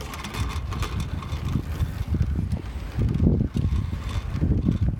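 Wind buffeting a microphone carried on a moving electric bike: an uneven low rumble that swells and fades in gusts.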